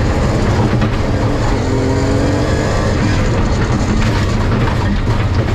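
BMW E36 rally car's engine at full throttle, heard from inside the cabin, its note rising as it pulls and shifting up from second to third gear.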